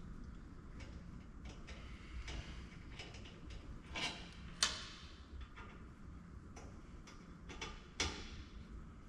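Scattered light clicks and taps of hand tools on the metal oil pump of an oil-fired furnace burner as it is opened to get at its filter screen, with the sharpest clicks about halfway through and again near the end.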